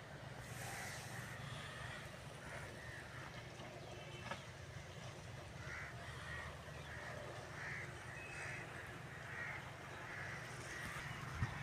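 Birds giving short calls again and again, less than a second apart, over a low steady rumble, with a single brief knock about four seconds in.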